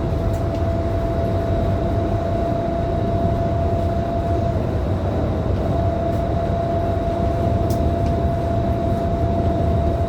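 Scania K310IB city bus on the move, heard from inside: a steady drone from its rear-mounted diesel engine and road noise, with a thin steady whine above it.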